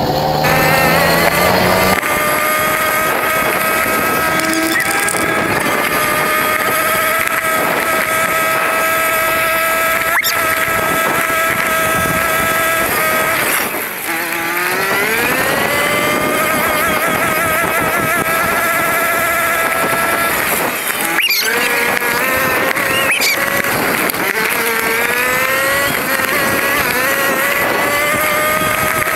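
Racing motorcycle engine recorded onboard, running at high revs with a high, steady pitch. The revs drop off sharply about 13 seconds in and briefly again about 21 seconds in, then climb back up.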